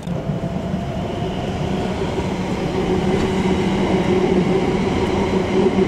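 Electric passenger train running at the platform, with a steady electric hum in several tones over rolling noise, growing slowly louder.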